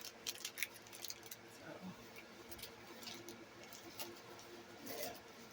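Faint handling noise: light clicks and crinkles of plastic packages being picked up and moved, over a low steady hum.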